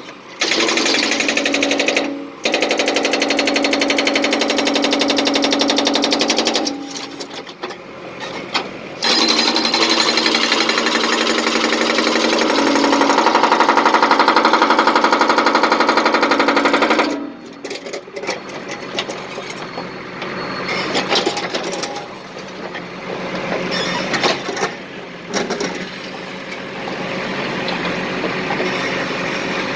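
Power demolition hammer breaking concrete in long runs of rapid hammering, pausing briefly twice, then giving way after about seventeen seconds to quieter, uneven clatter and rumble.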